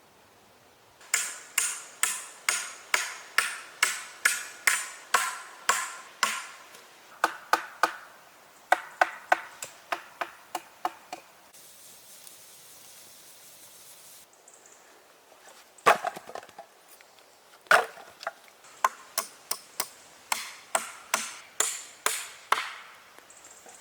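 Rapid runs of hand-tool strikes on wood, about three blows a second, each with a short ringing tone, broken by pauses. Two heavier single blows come about two-thirds of the way through.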